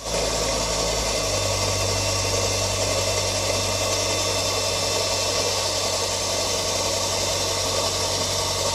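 A motor running steadily: an even, unchanging noise with a low hum underneath, starting abruptly.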